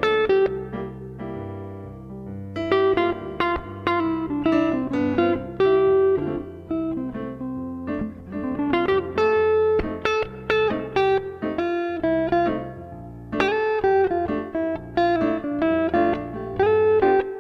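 Guitar music: plucked notes over a bass line.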